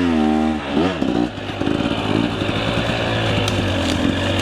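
Two-stroke enduro dirt bike engine revving unevenly for about the first second, then running on at a steady, rapid, rough beat.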